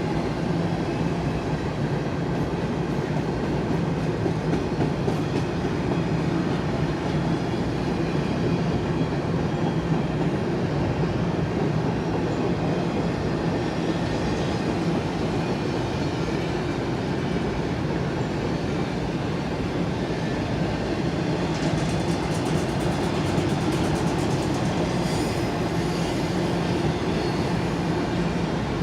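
Empty intermodal freight cars of a BNSF train rolling past: a steady rumble of steel wheels on rail with clicking over the joints. A faint high wheel squeal joins in about three-quarters of the way through.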